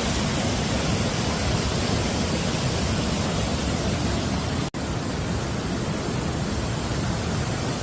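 Steady rush of falling water from the waterfall and its creek, a dense even hiss heaviest in the low end. The sound cuts out for an instant about halfway through, then resumes unchanged.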